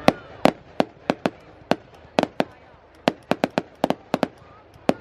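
Fireworks going off as a rapid, irregular string of sharp cracks and bangs, about twenty in five seconds, some in quick clusters of two or three.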